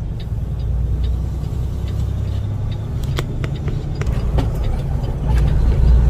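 A truck's engine and road noise heard from inside the cab while driving, a steady low rumble that grows louder about five seconds in, with scattered light ticks over it.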